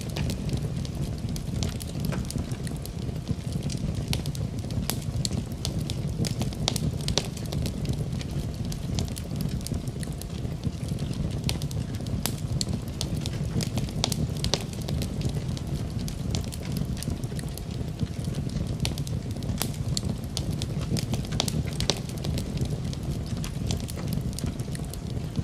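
Wood fire crackling in a fireplace: a steady low rumble of the burning logs with many sharp, irregular pops and snaps.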